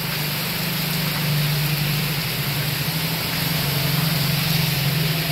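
Heavy rain pouring down onto a road, a steady, loud hiss of falling water. Under it runs a steady low hum.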